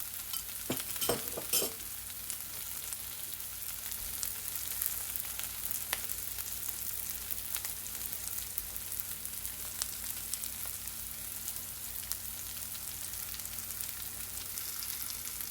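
Chopped onions sizzling steadily in hot oil in a pan with whole spices, softening as they fry. A few short knocks, as of stirring, come in the first two seconds.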